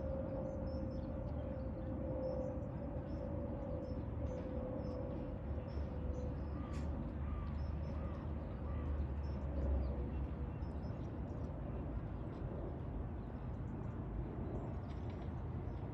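Small birds chirping over and over in short high calls, against a steady low motor drone with a rumble that swells about halfway through.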